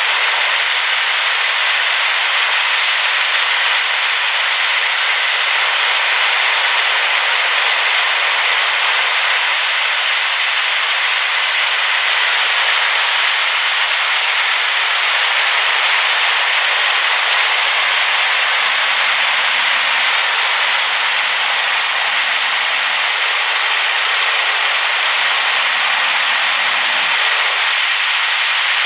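Waterfall running high after rain, a loud, steady rush of falling water with no letup.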